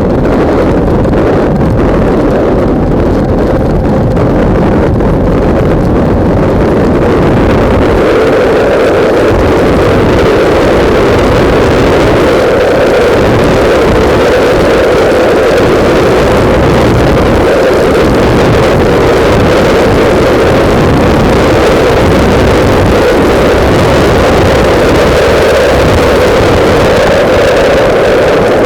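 Loud, steady wind buffeting on a microphone mounted on a motorcycle at riding speed, with the bike's engine running underneath.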